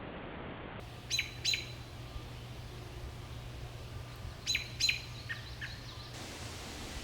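Bird calling: two quick, sharp notes that fall in pitch, then another pair a few seconds later followed by two fainter ones, over a low steady hum and background hiss.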